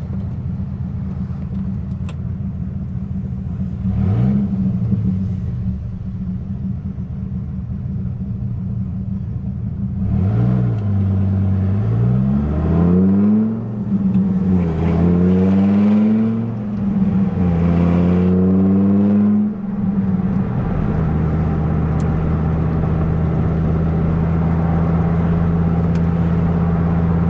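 1997 Dodge Viper GTS's V10 engine on the move: a steady drone with a brief rev about four seconds in, then from about ten seconds the pitch climbs hard and drops back three times as the six-speed manual is shifted up, settling into a steady cruise for the last several seconds.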